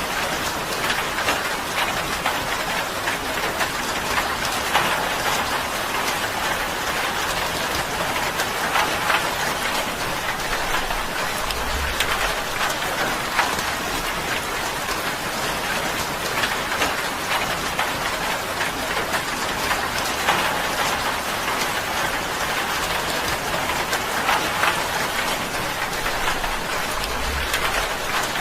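Steady rain falling on a tin roof: a dense, even patter of countless drops on the metal, with a brief low thud twice.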